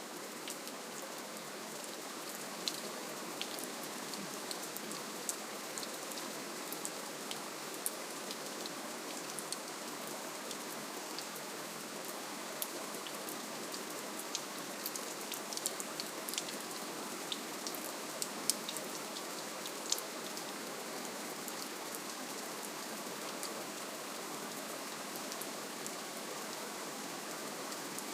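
Soft, steady rainfall: an even hiss of rain with scattered sharp ticks of single drops landing close by, most of them in the first two-thirds.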